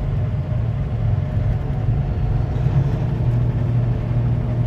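Steady low rumble of a semi truck's engine and road noise heard inside the cab while cruising at highway speed.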